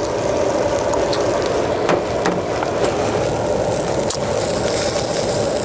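Marinated mackerel sizzling on a charcoal grill: a steady, dense crackle with scattered sharp pops.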